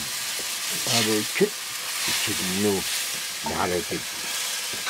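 Meat sizzling and frying in a black iron wok over a wood fire, stirred with a wooden stick. A person's voice is heard briefly three times over the steady sizzle.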